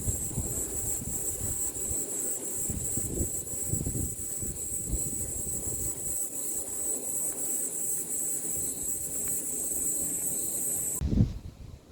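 A steady, high-pitched chorus of insects, crickets or similar, under a gusty low rumble of wind on the microphone. Both cut off suddenly with a thump near the end.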